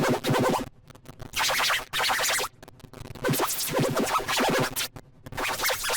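Heavily edited, electronically processed audio effects: short bursts of pitch-warped sound, each lasting about half a second to a second, broken by brief gaps.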